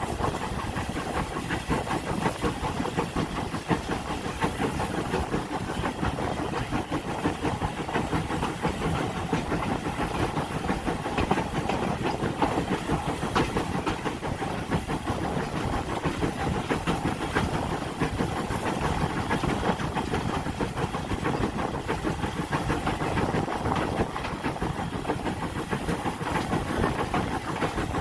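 Heritage train running along the line: a steady mix of engine noise, hiss and rail rumble that keeps an even level throughout.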